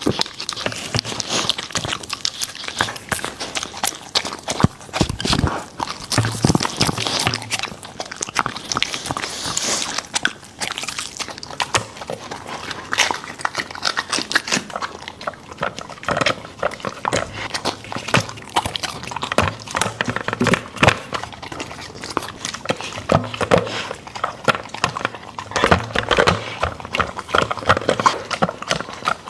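A border collie eating: dense, irregular chewing, crunching and smacking that runs on without a break.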